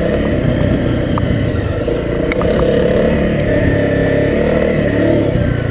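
Honda CRF250L's single-cylinder four-stroke engine running at fairly steady, low revs.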